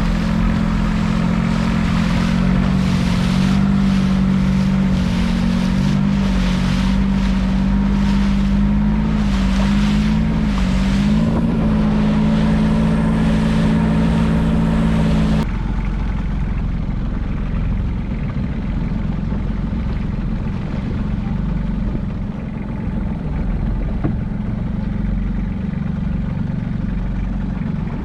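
Small fishing boat's engine running under way, a steady drone whose pitch wavers slightly, with wind and water noise. About halfway through the sound changes abruptly to a duller, slightly quieter engine drone.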